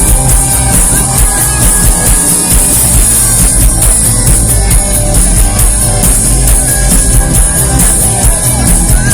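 Live rock band playing loudly at a concert, with a steady driving beat.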